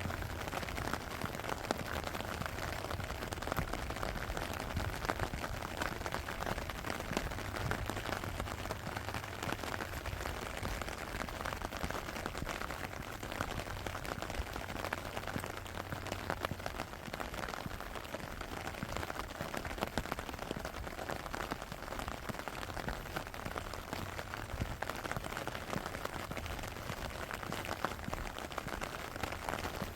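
Steady rain falling, with a dense patter of individual drops. A low hum underneath fades out about halfway through.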